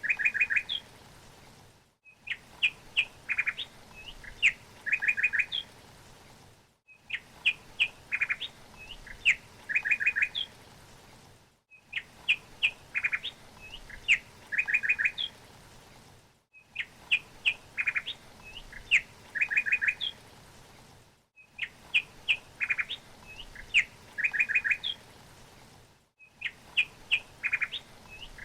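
Songbird chirping: a short phrase of sharp chirps and a quick trill, repeated identically about every five seconds with a brief silent gap between repeats, as a looped recording.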